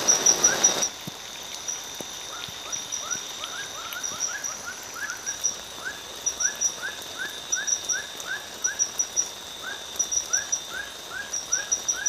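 Night chorus of frogs and insects: a steady stream of short rising chirps, several a second, over clusters of high clicks and a steady high insect whine. A louder hiss fills the first second, then cuts off.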